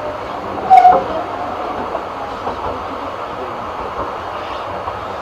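Narrow gauge steam train running along the track, a steady rumble of carriage wheels on rail, with one short loud squeal and a knock about a second in.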